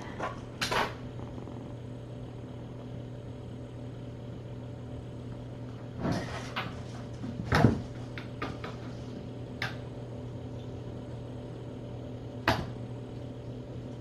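A handful of short knocks and clicks, scattered and irregular, over a steady low hum; the loudest knock comes a little over halfway through.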